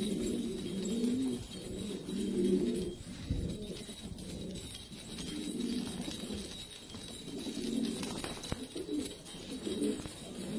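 Several domestic pigeons cooing, their low calls overlapping almost without a break.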